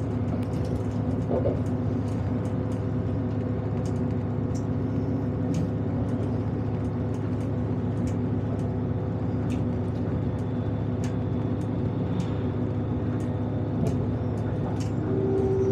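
Steady drone and rumble of a diesel multiple-unit train running, heard from inside the carriage, with scattered light ticks and rattles.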